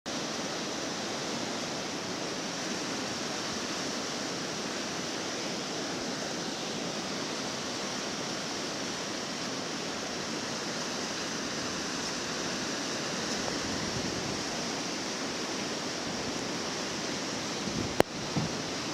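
Steady rush of fast-flowing whitewater, with a sharp knock near the end.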